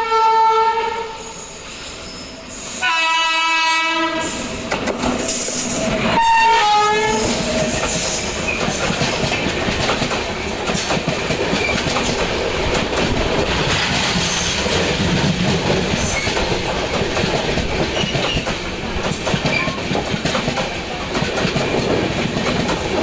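Electric locomotive horn sounding three times: a blast ending about a second in, another about three seconds in, and a short one around six seconds in. Then an express train runs past, its wheels clattering steadily over the rail joints.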